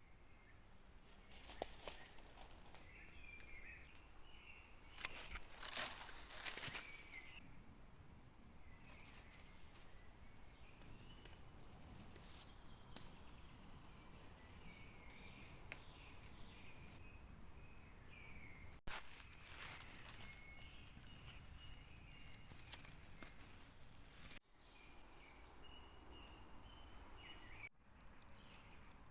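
Forest ambience: faint bird chirps over a steady background hiss, with a few sharp clicks and taps, broken by abrupt cuts.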